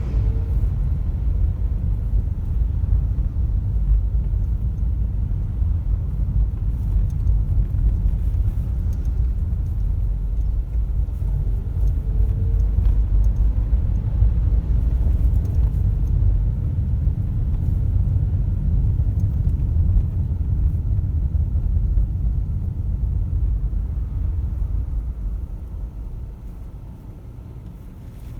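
Car driving on a road: a steady low rumble of road and engine noise that grows quieter over the last few seconds.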